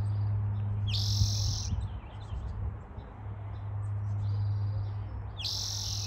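A songbird singing the same short phrase twice, about four seconds apart: a brief note followed by a loud buzzy trill. A steady low hum runs underneath.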